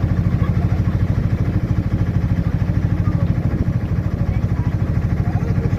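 An engine running steadily with a rapid, even low pulse.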